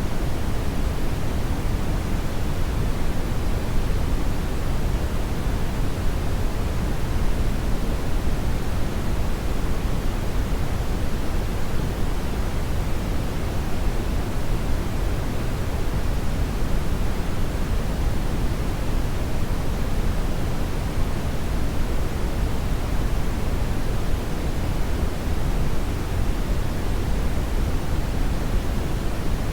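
Hair dryer running steadily: an even, unchanging rush of air, heaviest in the low end, with no change in speed or pitch.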